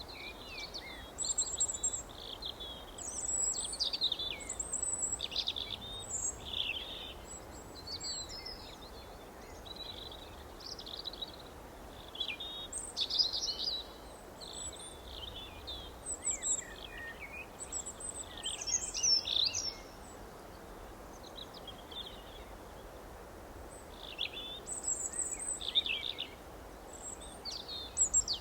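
Several small songbirds chirping and singing in short overlapping high phrases, with a lull about two-thirds of the way through, over a faint steady background hiss.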